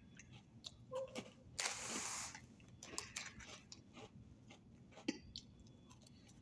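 Faint crunches and clicks of a person biting into and chewing an Oreo sandwich cookie, with one brief louder rushing rustle about two seconds in.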